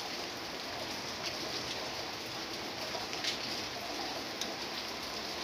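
Steady rain falling on the leaves of a fig tree and climbing vines, with scattered drops ticking and one sharper drop about three seconds in.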